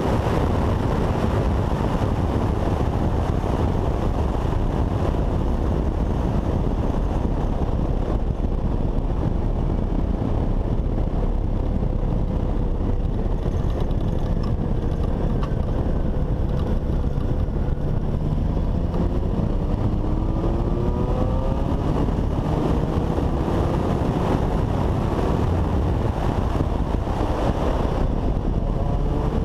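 Honda CBX 750 motorcycle's inline-four engine running on the road under heavy wind noise, its note climbing several times in the second half as it is accelerated.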